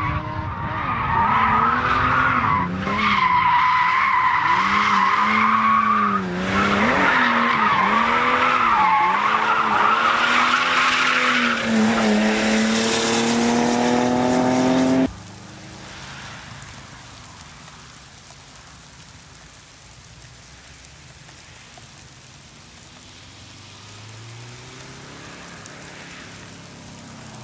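A competition car being driven hard through a slalom course: the engine revs rise and fall through the turns while the tyres squeal. After about 15 seconds the sound cuts abruptly to a much quieter hiss with a faint distant engine.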